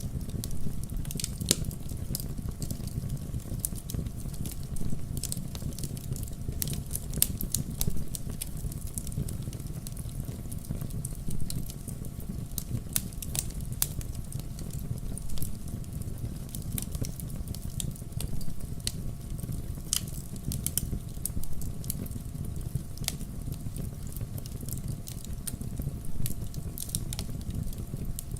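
Wood fire in a fireplace crackling, with frequent sharp, irregular pops over a low, steady rumble.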